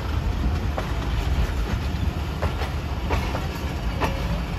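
Passenger train rolling past, its wheels clicking over rail joints above a steady low rumble, with a short squeak of metal near the end.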